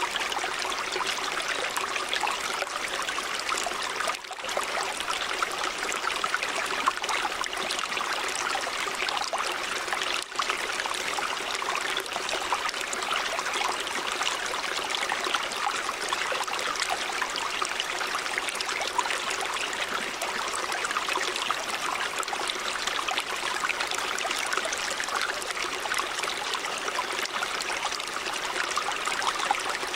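River water running in a steady, even rush, with two momentary dips in level about four and ten seconds in.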